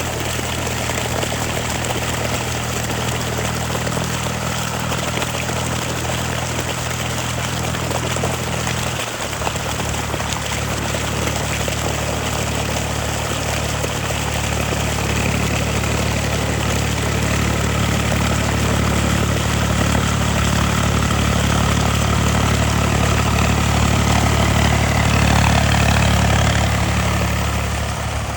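Eicher 485 tractor's diesel engine running steadily. About nine seconds in, its note changes abruptly, and it grows louder later on before easing off near the end.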